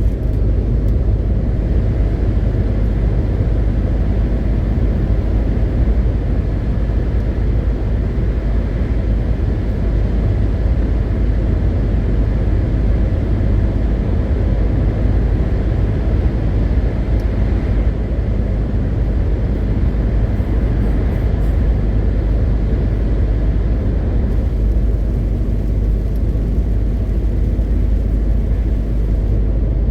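MAN TGX 520 truck driving at a steady pace, its straight-six diesel engine and tyre noise making a steady low rumble.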